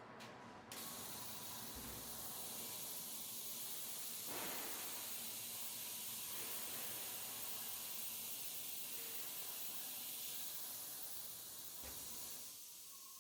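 Industrial parts washing machine running its spray wash: a steady hiss that starts about a second in and dies away near the end.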